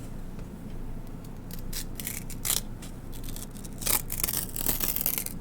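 A sheet of paper handled close to the microphone. It gives a few short, sharp rustles, then a longer, denser stretch of tearing that starts about four seconds in.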